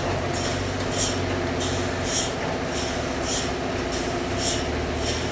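Sawmill machinery running steadily, a motor hum whose low note drops about two seconds in and rises again near the end, with a short high hiss repeating roughly once a second.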